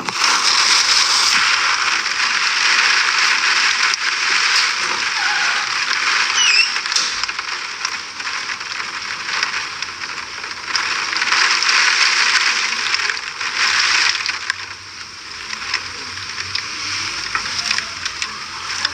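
Heavy hurricane rain and wind: a dense hiss that swells and eases in gusts, loudest in the first couple of seconds and again around eleven to fourteen seconds in.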